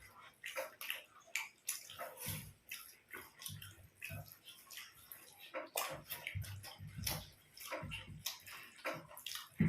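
People eating by hand up close to the microphone: irregular wet chewing and lip-smacking clicks, with occasional soft low thumps.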